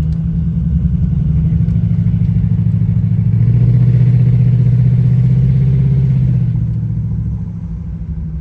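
Jaguar XJR's supercharged V8 running while the car is driven, heard from inside the cabin with road noise. The engine note grows louder and deeper for a few seconds in the middle, then eases off near the end.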